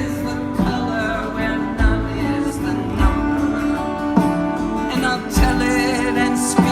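Live band playing an instrumental passage: plucked and strummed guitar over a steady beat, with a low drum thump about every 1.2 seconds.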